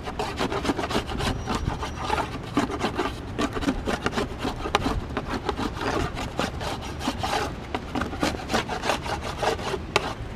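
Beeswax being scraped off wooden beehive parts in quick, repeated scraping strokes, with a sharp knock near the end.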